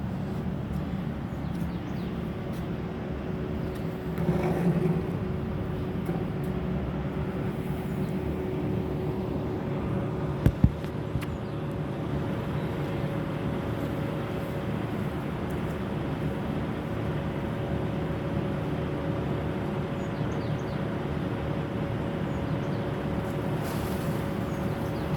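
Heavy tanker truck's diesel engine running steadily on the road. Two sharp thumps come close together about ten seconds in.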